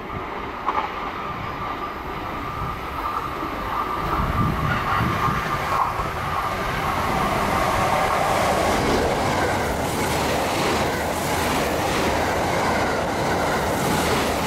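Limited express electric train passing through a station at speed: the rumble swells over the first several seconds as it approaches, then the cars rush past loud and steady, with a rhythmic clatter of wheels over the rail joints in the later seconds.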